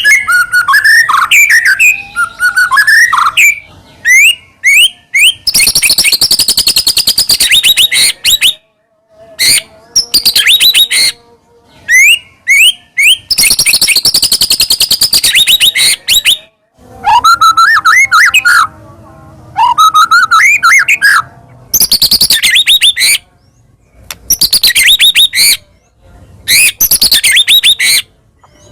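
White-rumped shama (murai batu) singing in full, varied song. Phrases of clear gliding whistles alternate with long, fast, high rattling chatter, with short pauses between phrases.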